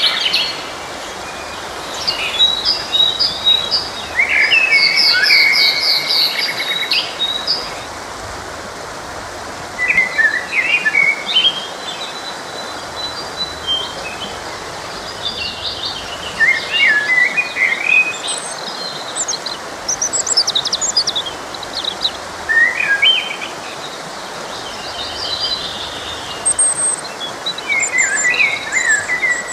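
Several songbirds singing in short bursts of chirps and trills every few seconds, over the steady rush of a forest stream.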